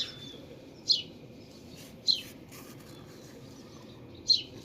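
A small bird chirping: three short, sharp, high chirps that sweep downward, spaced a second or two apart.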